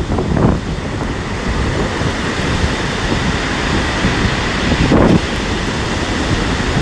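Storm surf breaking on a pebble beach under strong wind, with heavy wind rumble buffeting the microphone. There is a louder rush about five seconds in.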